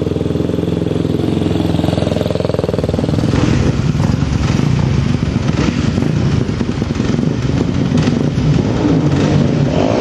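Single-cylinder Supermono race motorcycle engine running: steady at first, then revving up and down after about three seconds as the bike is ridden, a test run after crash repairs.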